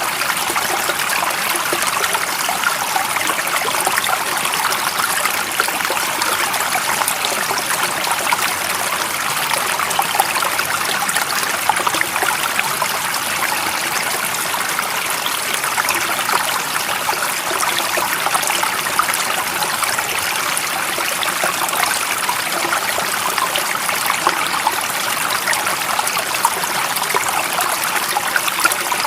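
A stream running and trickling steadily, with a dense fine splashing and bubbling that holds an even level.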